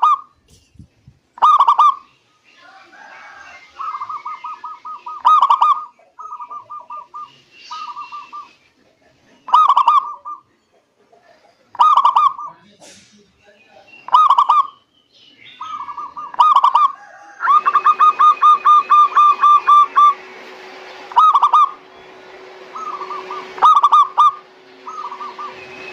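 Zebra doves (perkutut) cooing: short, clear notes near 1 kHz, loud and soft calls interleaved, with a quick rolling run of rapid notes about two-thirds of the way through.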